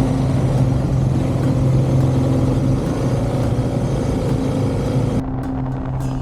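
Motorcycle riding at a steady speed: the engine hums evenly under a loud rush of wind and road noise. About five seconds in the rushing cuts off abruptly, leaving the engine hum.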